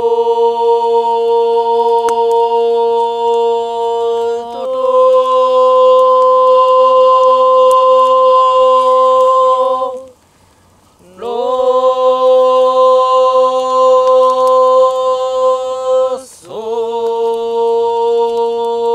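A voice chanting long, steady held notes, each lasting several seconds, with short breaks for breath about halfway through and again near the end; the second note sits slightly higher than the others.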